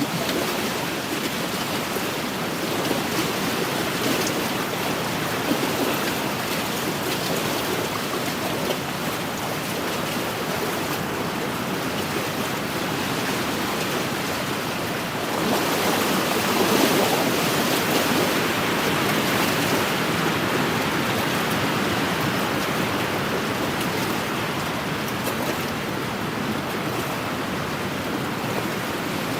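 Wind-driven waves washing against an inland lakeshore, with wind blowing. It is a steady wash that swells louder about halfway through.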